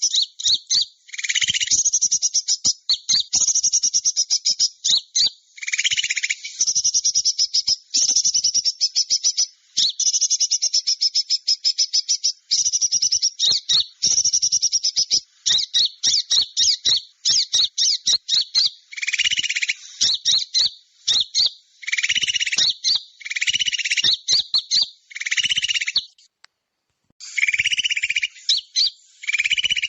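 Bird-lure call for small birds (suara pikat): rapid, high-pitched chirping and trilling in bursts of one to three seconds with short breaks, some with a lower buzzy note underneath, and a pause of about a second a little before the end.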